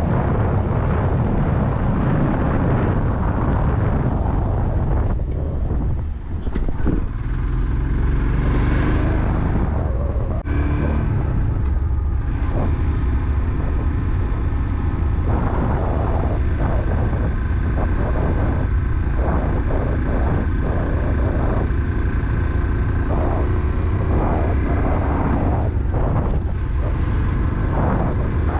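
Motorcycle engine running on the move, under heavy wind rumble on the microphone; a few seconds in, the engine note rises as it revs.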